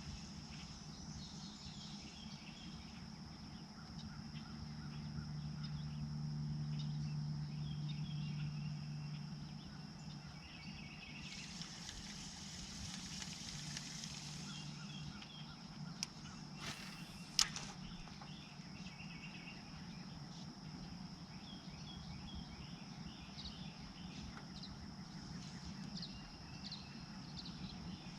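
Quiet outdoor pond ambience: scattered bird chirps over a steady high-pitched drone. There is a low hum for a few seconds early on, a brief rush of noise near the middle, and two sharp clicks shortly after it.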